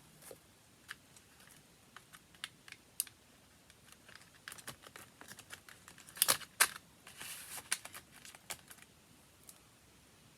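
Irregular light clicks and taps from handling watercolour paints and paper, thickening in the middle with two sharper clicks and a short scratchy rustle before easing off.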